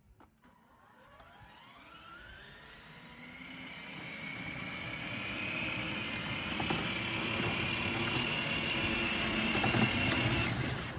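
Electric motor of a battery-powered toy truck whining as it spins up. The pitch rises over the first few seconds, then holds steady and grows louder.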